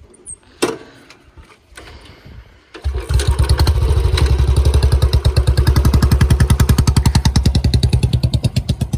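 A single-cylinder Royal Enfield Bullet motorcycle engine catches about three seconds in and then idles loudly, thumping fast and evenly.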